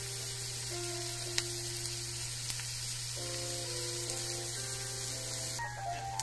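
Sliced red onion and chopped garlic sizzling steadily in hot oil in a stainless steel frying pan, easing a little near the end. Background music plays over it.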